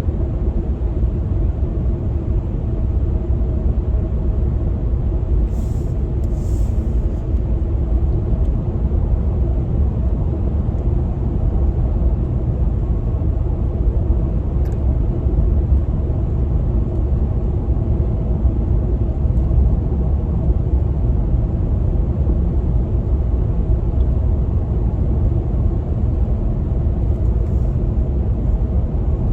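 Steady road and engine noise of a pickup truck driving, heard from inside: a continuous low rumble with a steady hum over it. Two faint short clicks come about six seconds in.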